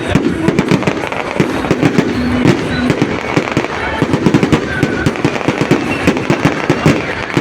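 A huge wood bonfire crackling and popping loudly, with a dense, continuous stream of sharp snaps.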